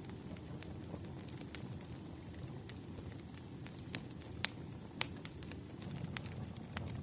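Wood fire burning with a low steady rumble and irregular sharp crackles and pops of the burning firewood, two louder pops about four and a half and five seconds in.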